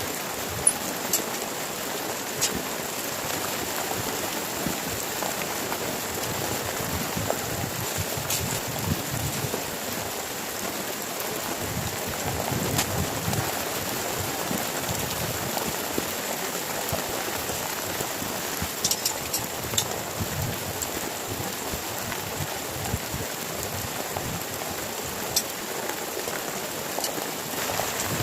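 Heavy rain falling steadily, with scattered sharp taps of single drops standing out, a quick cluster of them about two-thirds of the way through.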